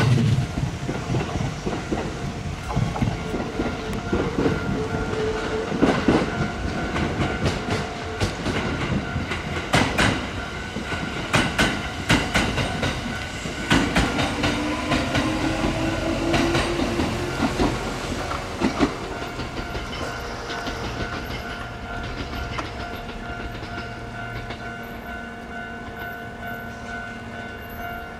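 Kintetsu electric commuter trains passing on the line: wheels clacking over the rail joints, with a rising motor whine about halfway through, the sound dying away toward the end.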